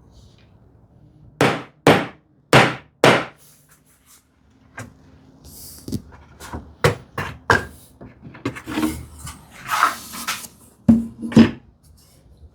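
Wooden frame being knocked together: four loud sharp blows about half a second apart a little over a second in, then a run of lighter knocks and the scrape of handled wood, and two more blows near the end, as mortise-and-tenon joints are driven home during a glue-up.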